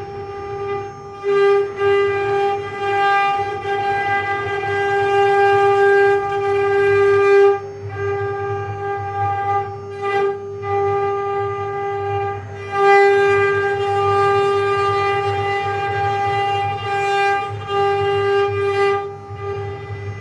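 Mini CNC machine running: a steady, high-pitched motor whine over a low hum, breaking off briefly every few seconds.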